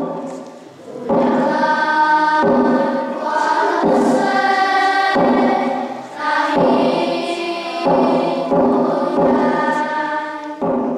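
A choir singing long held notes in several phrases, each broken by a short pause.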